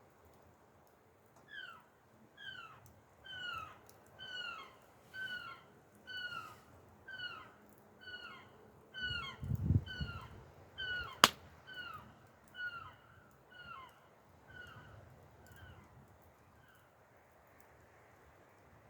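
A bird calling a long series of short, downward-sliding notes, about one a second, fading away near the end. A low thump comes about halfway through, and a sharp click just after it.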